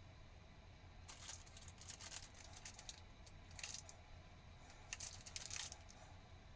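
Faint small clinks and rustles of objects being handled, in a few short clusters.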